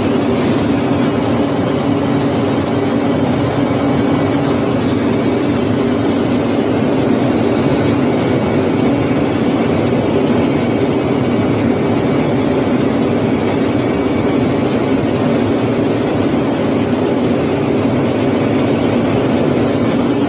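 2008 Vactor truck running steadily under load during a water-flow demonstration, a constant loud machine noise with a steady hum that does not change.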